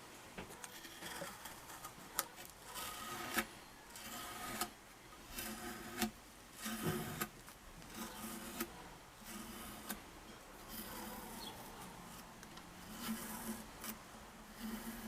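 Repeated rubbing or scraping strokes by hand, uneven and about half a second to a second each, with a few sharp clicks, typical of cleaning or sanding work on a ukulele's wood.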